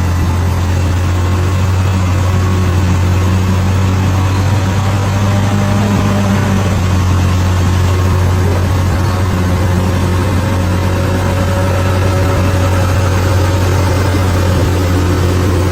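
Bulldozer's diesel engine running at a steady, low, even pitch.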